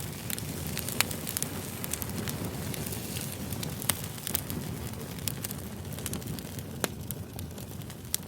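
Wood fire crackling: a steady low rush of flames with irregular sharp pops of burning wood, the loudest about a second, four seconds and seven seconds in.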